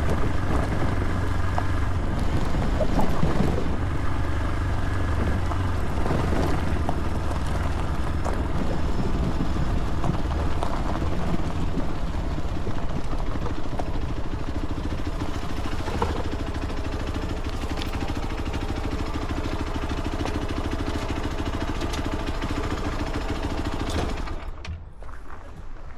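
Motorcycle engine running steadily at low revs, held in a low gear for engine braking, with a steady hum that eases slightly and drops away near the end.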